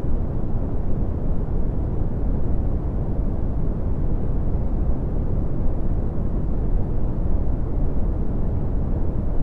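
Red (Brownian) noise: a steady, even hiss weighted toward the low end, a deep rumble with little above the treble.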